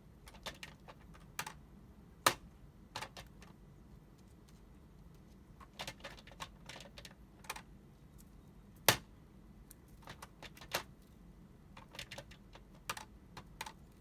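Hooded crow pecking at and working the lever of a plastic dog activity puzzle box: irregular sharp taps and clacks, with two much louder knocks about two seconds in and about nine seconds in.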